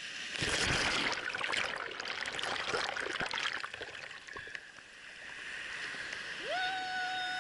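Sea wave breaking and washing around the camera: a loud rushing, crackling wash for about four seconds that then settles into a softer hiss. Near the end a steady high held tone starts.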